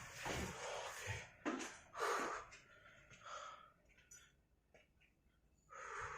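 A man breathing hard in short, noisy breaths, with a near-silent pause before a last breath near the end.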